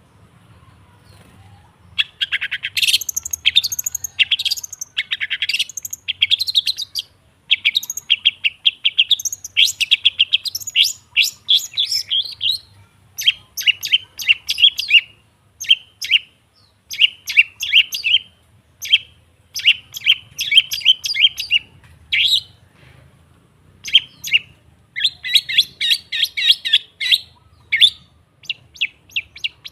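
Long-tailed shrike singing: rapid trains of short, chattering notes in bursts of a second or two, separated by brief pauses, starting about two seconds in.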